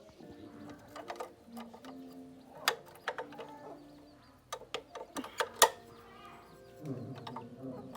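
Irregular sharp clicks and knocks of tools and small metal engine parts being handled, the loudest strikes a little under three seconds in and again around five and a half seconds in.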